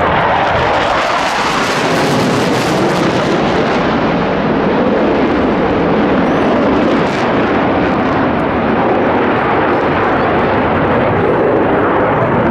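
Boeing F/A-18 Hornet jet engines of the Blue Angels making a loud, continuous noise, sharpest and hissiest in the first few seconds, then duller.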